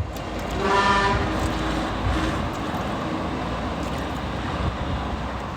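Steady vehicle or traffic rumble, with a short horn-like tone about a second in.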